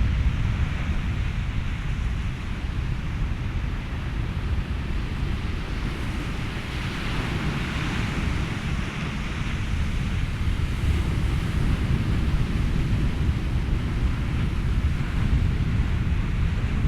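Ocean surf washing over a steady low rumble of wind, with one wave swelling louder in the middle and easing off again.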